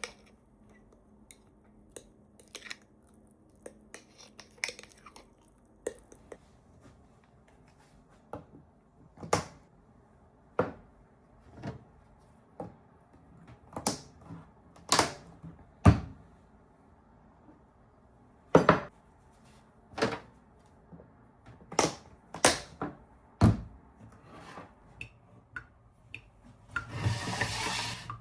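Irregular knocks and clicks of household objects being handled and set down, about twenty separate strikes. A short rushing hiss comes near the end.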